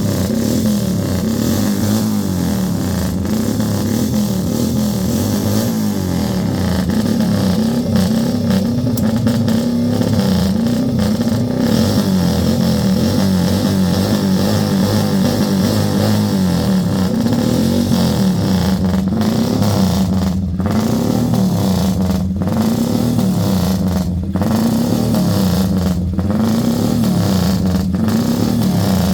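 Arter Matchless G50 racing motorcycle's 500 cc single-cylinder four-stroke engine running loud and being revved, its pitch rising and falling every second or two as the throttle is blipped repeatedly.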